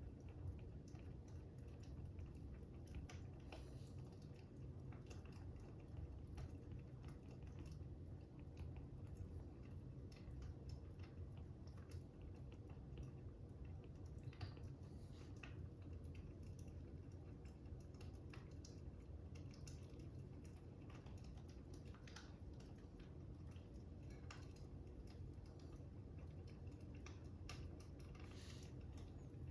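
Faint fire crackling: irregular small pops and clicks over a low, steady rumble.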